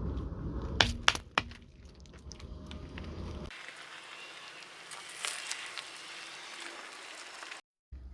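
A car's tyre rolls over and crushes brittle objects over a low engine rumble. Three sharp cracks come about a second in and are the loudest sounds. After an abrupt cut the rumble stops, leaving a thin hiss with scattered small crackles.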